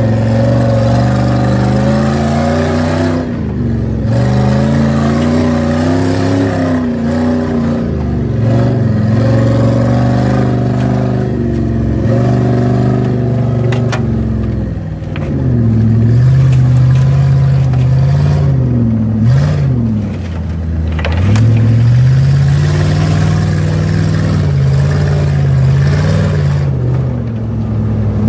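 Jeep Grand Cherokee's 4.7-litre V8 engine revving up and down repeatedly as it is driven hard off-road, heard from inside the cabin, with a few sharp knocks from the body and chassis.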